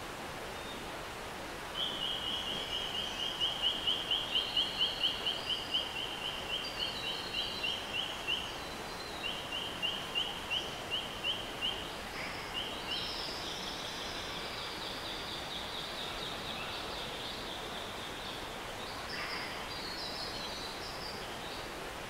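A bird calling a long, fast run of short high notes, about three a second, that swells and then fades, pausing once, followed by a fainter, slightly higher run. Behind it, a rainforest stream flows with a steady rush.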